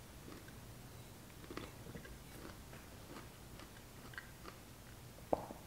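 Faint, irregular wet crunching of a person chewing dill pickle spears with their mouth. A sharp click comes near the end.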